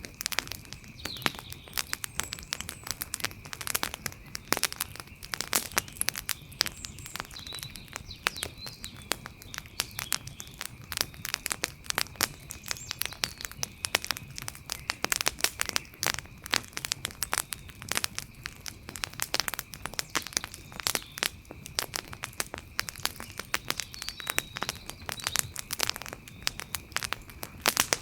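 Wood campfire crackling, with many irregular sharp snaps and pops, some much louder than the rest. A steady high-pitched tone and faint chirps run underneath.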